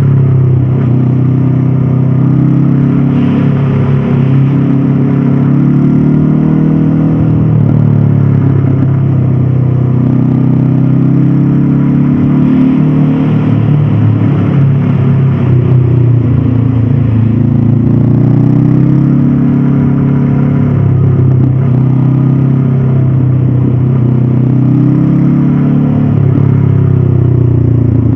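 Stock 2022 Honda CB500F parallel-twin engine pulling under way, its pitch climbing and falling again and again as the rider accelerates, shifts and backs off, with short dips at the gear changes.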